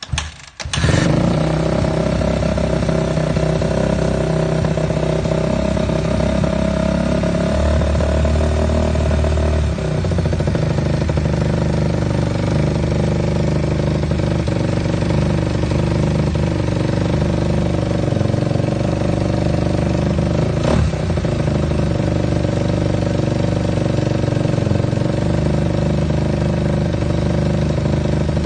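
2015 Suzuki RM-Z250's single-cylinder four-stroke engine catching about a second in on a cold start, then idling steadily through an Akrapovic exhaust. The idle note shifts slightly about ten seconds in.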